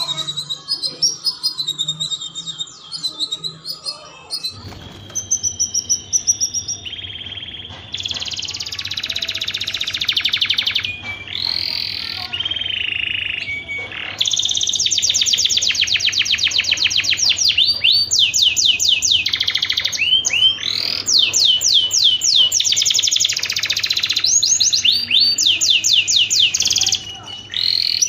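Domestic canary singing a long, continuous song of fast trills, each phrase a rapid run of repeated notes, some sweeping up or down in pitch, with a faint steady low hum underneath.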